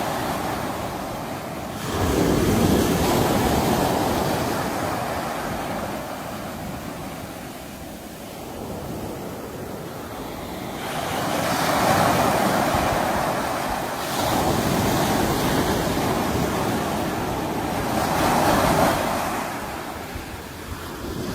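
Sea waves breaking and washing ashore. The surf swells and fades in slow surges, about two seconds in, around eleven seconds and again near eighteen seconds.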